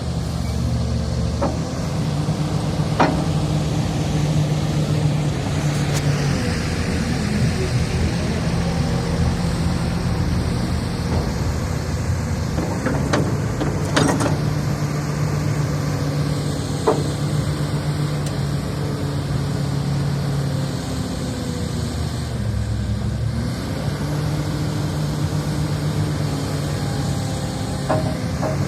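Excavator's diesel engine running under working load, its note swelling and easing every few seconds, with scattered sharp metal clanks.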